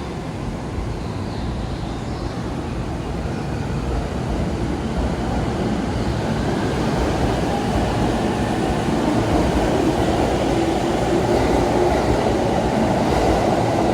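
Tokaido Line electric commuter train pulling out of the platform, its running noise of motors and wheels building steadily louder as it gathers speed.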